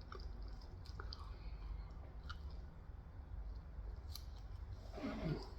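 A person chewing food close to the microphone, with small wet mouth clicks over a low steady hum, and a brief louder mouth sound about five seconds in.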